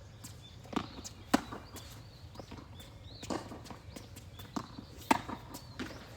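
Tennis rally: the ball popping off racquets and bouncing on the court, a run of sharp knocks with the two loudest hits about a second in and about five seconds in.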